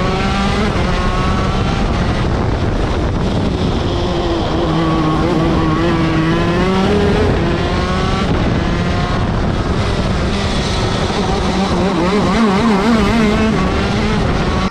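TM Racing 125cc two-stroke shifter kart engine running on track, its pitch dropping and climbing as the revs fall and rise through the corners.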